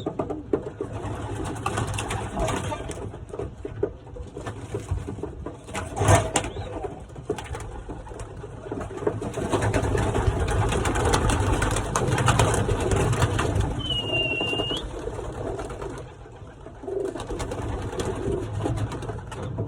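Racing pigeons cooing in a loft, over scattered rustling and clicking, with a sharp knock about six seconds in and a brief high squeak near the end.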